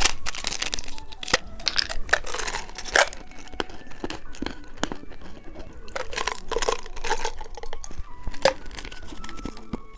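Plastic candy packaging being handled, torn and crinkled, with irregular sharp clicks and short rustles.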